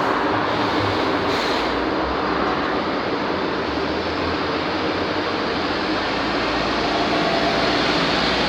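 Steady, dense vehicle rumble with no distinct engine note, even in level throughout.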